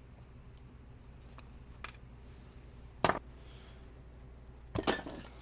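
Hard clinks and knocks of metal tools and parts being handled: a faint click, then one sharp clink about three seconds in and a quick pair near the end, over a low steady hum.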